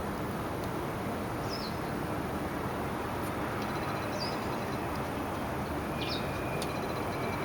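A small bird gives three short, high chirps, each sliding downward, spaced a couple of seconds apart, over a steady background rush of noise.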